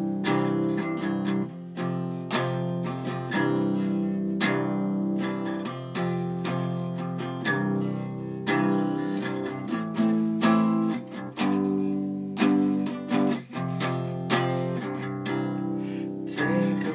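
Acoustic guitar strummed in a steady rhythm, moving through a series of chords.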